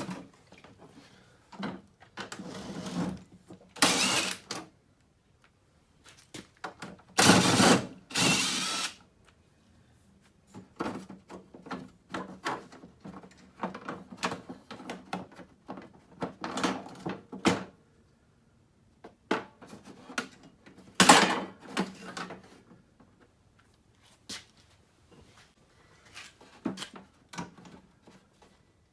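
Hand-tool work on a snow blower's small engine, likely while checking for spark: irregular clatter and clicks, with louder rasping bursts about four seconds in, twice between seven and nine seconds, and again around twenty-one seconds. The engine does not run.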